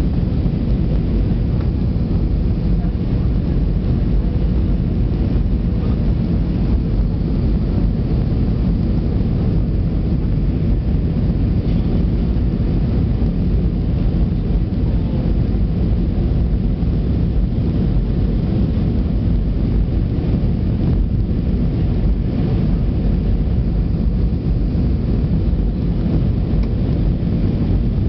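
Steady low rumble of an Airbus A320-200 in flight, heard inside the passenger cabin: engine and airflow noise, unchanging throughout.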